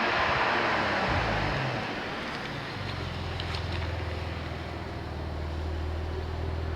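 Porsche 911 Targa 4 GTS's twin-turbo flat-six with road and wind noise. The engine note falls and the rush of wind fades as the car slows over the first two or three seconds, then it settles into a steady low hum.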